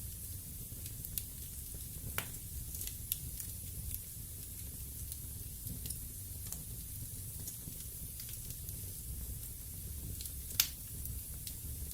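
Wood fire in a fireplace crackling: scattered sharp pops over a steady low rumble, with the loudest pop about ten and a half seconds in.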